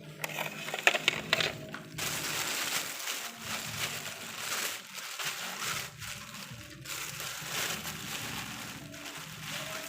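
Rustling, crinkling handling noise with a few sharp clicks about a second in.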